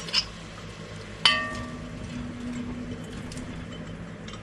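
A glass canning jar knocked down on a hard surface, giving one sharp clink that rings and fades over about a second, after a couple of small clicks.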